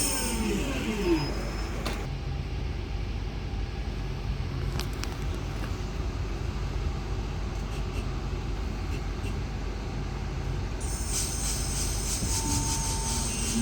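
Electric passenger train at a station platform. Its traction motor whine falls in pitch during the first second. A steady low rumble follows, with a couple of faint clicks. Near the end high-pitched noise returns and rising tones begin as the train pulls away.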